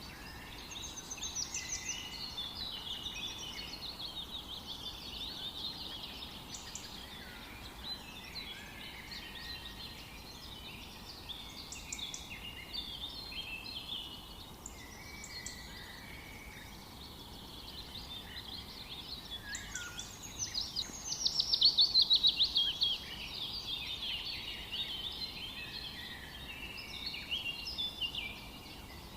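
Several songbirds singing and chirping at once over a faint steady hiss. The loudest is a rapid trill of many high notes falling in pitch, at about 20 to 23 seconds in.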